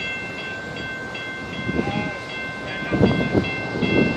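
Train at a blocked road crossing. A high ringing pulses on and off two or three times a second, with a few low rumbles about halfway through and near the end.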